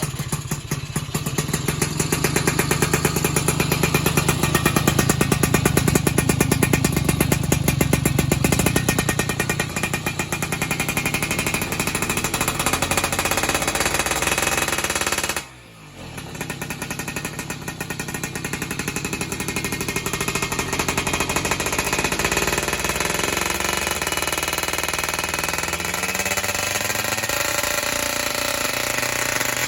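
Yamaha F1ZR two-stroke engine running through an El9 Racing full-press racing exhaust, with a fast, even popping beat. Its sound drops away briefly about halfway through, and the pitch climbs near the end.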